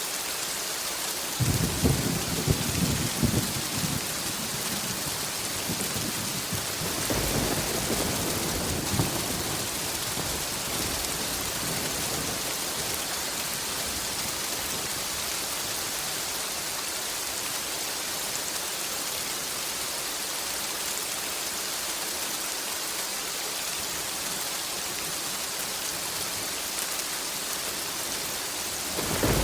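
Steady rain with two rolls of thunder. The stronger, crackling one comes about a second and a half in and lasts a couple of seconds; a fainter rumble follows around seven seconds in.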